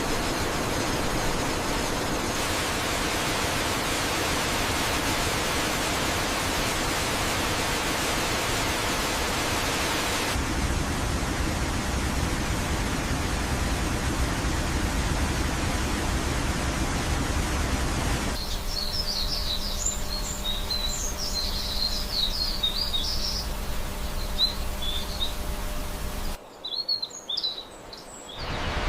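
Steady rushing of water from a waterfall, changing abruptly several times, with birds chirping over it in the second half.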